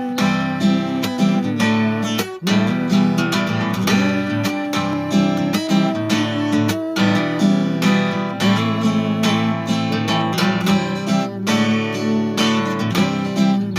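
Acoustic guitar strumming chords with a steady rhythm: an instrumental break in a song, with no singing.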